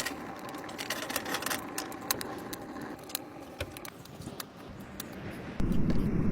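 Irregular sharp clicks and light taps, with a louder rushing noise starting about five and a half seconds in.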